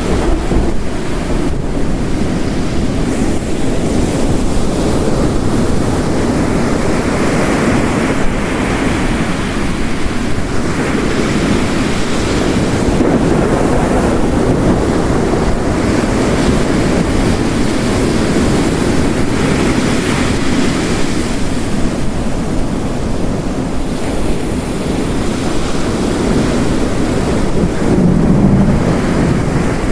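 Mixed storm ambience: heavy rain with ocean waves crashing on a rocky coast, a continuous loud wash of noise that swells and eases every few seconds as the waves break.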